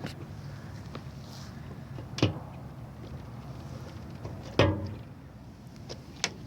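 Tempered-glass windshield of a steel side-by-side cab being unlatched and folded down: two solid clunks, about two seconds and four and a half seconds in, the second the loudest with a short ring, plus a few light latch clicks.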